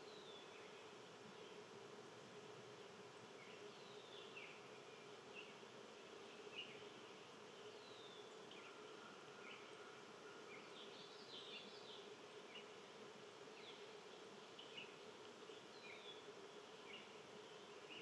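Faint chirping of small wild birds: short high notes, many of them falling in pitch, scattered every second or so and bunching into a brief flurry around the middle, over a steady low buzzing drone.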